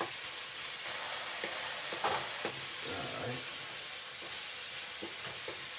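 Diced onions and peppers sizzling in oil in a nonstick frying pan as they cook down. A wooden spoon stirring them gives a few short scrapes and knocks against the pan.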